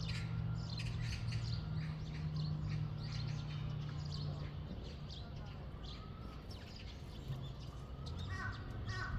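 Small birds chirping in short high notes over a steady low hum. Near the end a bird starts a quick run of harsh repeated calls.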